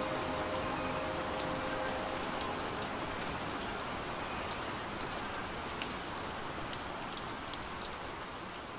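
Steady rain falling, with scattered sharp drop ticks, gradually fading out. The last held note of the music dies away in the first two seconds.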